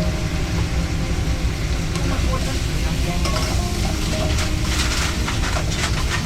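Food sizzling in a food-truck pan with a utensil stirring and scraping, over a steady low rumble. The scraping strokes come thick and fast from about three seconds in.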